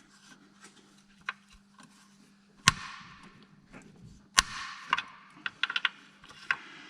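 Metal hand tools and car parts clinking during work under a car: scattered light clicks and two loud metallic clanks that ring briefly, about two and a half and four and a half seconds in.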